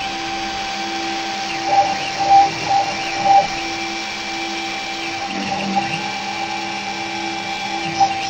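PCB engraving machine running: a steady mechanical whir and hiss with several held tones, swelling briefly a few times about two to three and a half seconds in.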